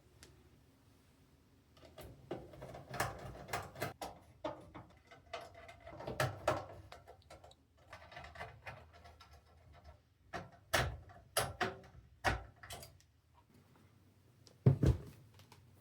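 Computer parts being handled and fitted into a PC case: scattered clicks, taps and knocks of plastic and metal, some in quick clusters, with the loudest knock near the end.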